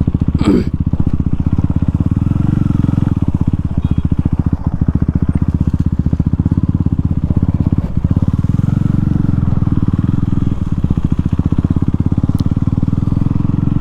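KTM Duke 390's single-cylinder engine ridden with no exhaust silencer, giving a loud, rapid train of open exhaust pulses at a fairly steady speed.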